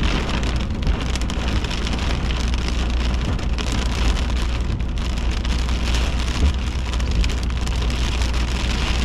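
Rain pelting a car, heard from inside the cabin as a dense, steady hiss, with a low steady rumble underneath.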